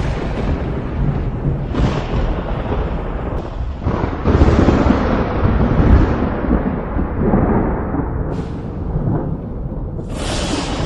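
Thunder rumbling continuously, with a heavier roll starting about four seconds in and a sharp crack near the end.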